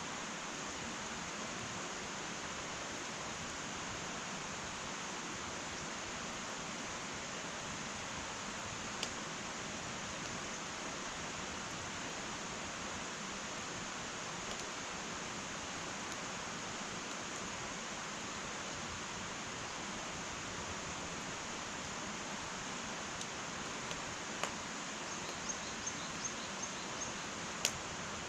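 Wood fire burning in an irori sunken hearth: a steady hiss with occasional sharp crackling pops, which come several in quick succession near the end.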